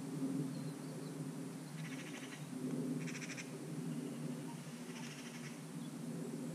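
Three short rattling bird calls, each a quick run of even pulses lasting about half a second, over a steady low hum.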